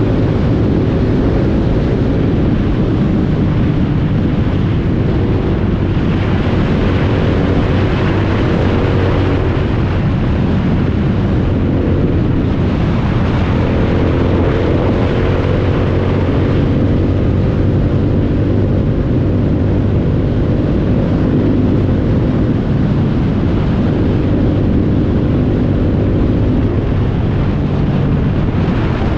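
Motorcycle engine running steadily while riding, with wind noise on the microphone; the engine pitch shifts slightly about halfway through.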